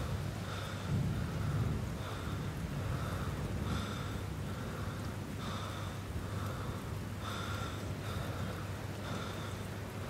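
Suspense sound design for a horror film: a steady low rumble under a rain-like hiss, with a soft pulse repeating about once a second.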